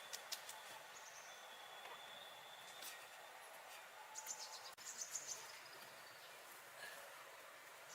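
Faint outdoor ambience: a soft steady hiss with short, high chirps in two small clusters, one right at the start and another about four to five seconds in.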